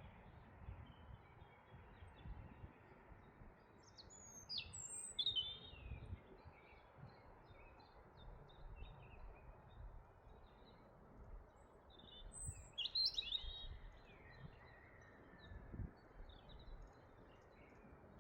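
A songbird singing two short, twittering phrases about eight seconds apart, over a steady low background noise.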